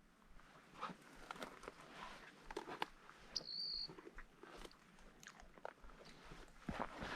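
Footsteps crunching on loose ground, irregular and faint, with a single short high chirp about three and a half seconds in.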